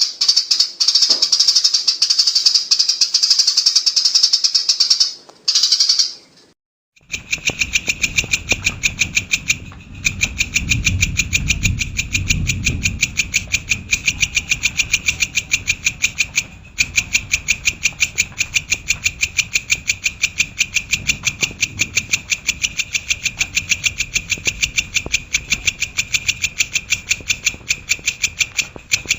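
Cendet (shrike) singing: a fast, dense, high-pitched chatter, then after a short break about 7 seconds in, a long run of rapid, evenly repeated sharp notes. A low rumble sits under the song for several seconds after the break.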